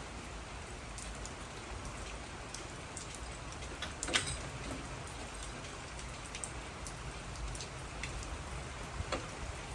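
Steady rain falling, with scattered small drip ticks and a sharper click about four seconds in.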